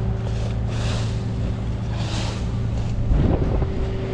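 A tow truck's engine idling steadily, with a few short bursts of rustling noise over it.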